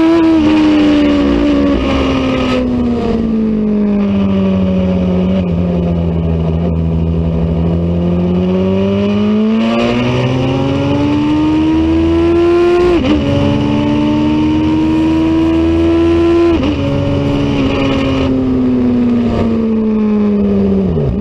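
Racing motorcycle engine running hard. Its pitch sinks slowly over the first several seconds, then climbs again, with sudden short drops in pitch at gear changes a little past halfway, a few seconds later, and again near the end.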